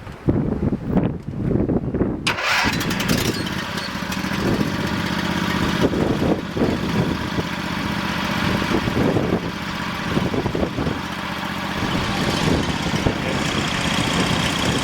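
A Yardman garden tractor's 25 hp engine is cranked by its electric starter for about two seconds, catches suddenly, and settles into steady running.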